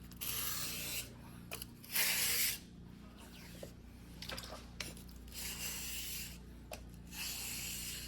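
Single-bevel fuguhiki sashimi knife blade, white steel, being stroked by hand across a whetstone. There are four long scraping strokes, with small clicks of the blade between them.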